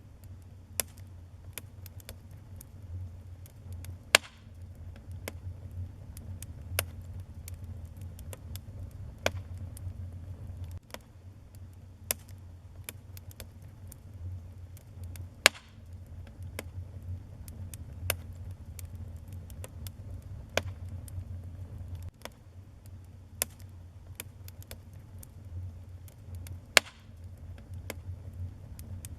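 Wood fire burning in a fireplace: a steady low rumble of flame with scattered, irregular crackles and three loud pops, about four seconds in, midway and near the end.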